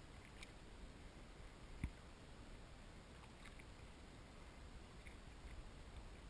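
Quiet kayak paddling: faint drips and small clicks of water, with one short low knock about two seconds in.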